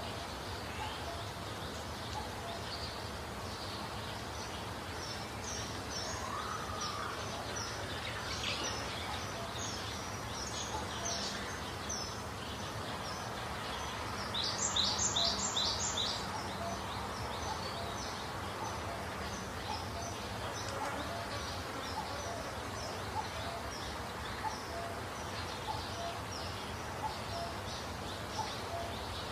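Small birds chirping over a steady background hiss: short, high, falling chirps repeat throughout, with a louder run of about five quick chirps about halfway through.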